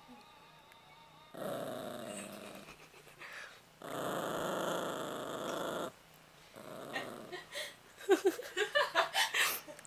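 A dog growling and grumbling in protest at being made to go for a walk: two long growls of about two seconds each, then shorter, choppier grumbles near the end.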